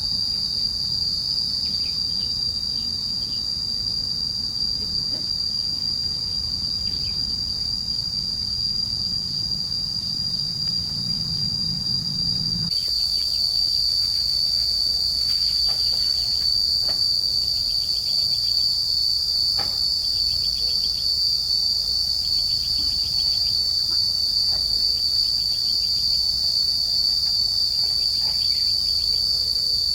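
Steady, high-pitched, unbroken drone of an insect chorus. About a third of the way in, the low background rumble under it drops away abruptly and a faint hiss takes its place.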